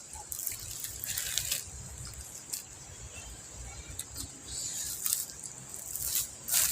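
Intermittent rustling and light crackles of handling, in short clusters, over a low steady rumble.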